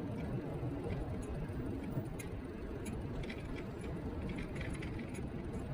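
Riding noise of a Niu KQi3 Pro electric kick scooter under way: a steady low rumble from the wheels on the road and wind on the action camera's microphone, with faint scattered ticks and rattles.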